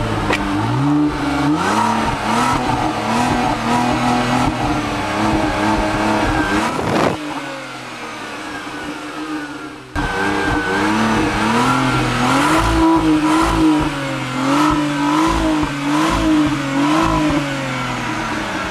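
Opel Signum's 2.8-litre V6 turbo engine accelerating, its note rising and stepping back down several times. After a cut about ten seconds in, the engine note rises and falls repeatedly, then drops away near the end.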